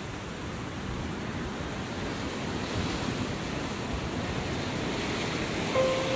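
Ocean surf washing, a steady rushing noise that slowly swells in level. About six seconds in, sustained musical notes begin over it.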